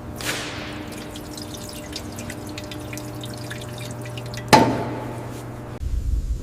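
Liquid dripping in quick, irregular drops, then one loud metallic clank about four and a half seconds in that rings briefly. A low rumble starts near the end.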